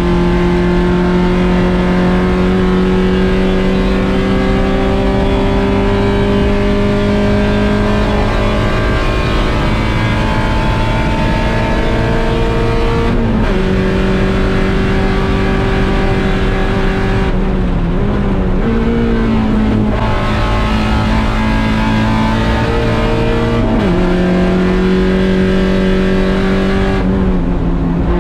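1.6-litre Mazda Miata four-cylinder race engine under hard throttle, its pitch climbing slowly through a long pull. The pitch changes suddenly about halfway in, wavers with quick rises and falls through a braking and downshift stretch, then pulls steadily again, over constant road and wind noise.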